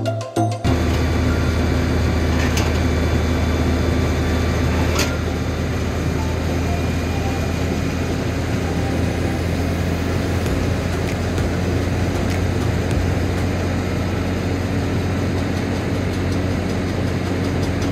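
Heavy farm vehicle engine running steadily under load, with mechanical clatter and a couple of sharp clicks, as fertilizer is loaded into the spreader.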